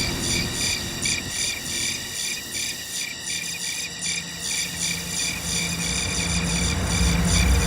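Crickets chirping in a steady, fast pulsing rhythm, like a cartoon silence gag. A low rumble builds up over the last couple of seconds.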